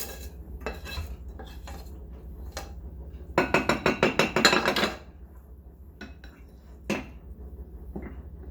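A metal spoon scraping and clinking against a pan and bowl as cooked chicken and potatoes are spooned out. A fast run of scrapes lasts about a second and a half in the middle, with single clinks before and after.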